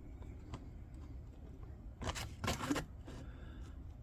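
A thin mica sheet rustling and scraping as it is handled and turned against a square, in a short cluster of strokes about two seconds in.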